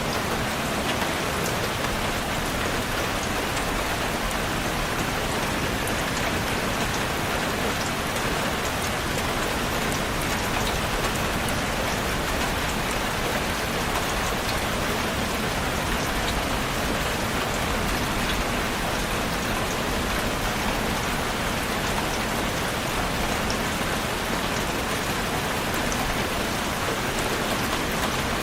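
Steady rain falling on a surface, an even rushing hiss of many drops with fine ticks of individual drops, unchanging throughout.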